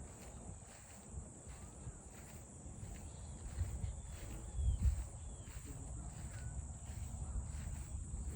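Outdoor ambience: a steady high-pitched insect drone under a low rumble, with a few faint short chirps.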